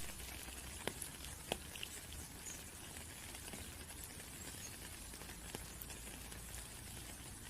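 Steady rain pattering, with scattered louder drops ticking close by, the sharpest about one and one and a half seconds in.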